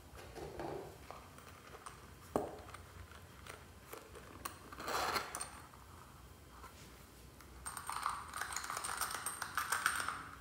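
Fluffy slime being mixed and squished, with short squelches and a sharp click, then a dense run of tiny crackling pops for the last few seconds.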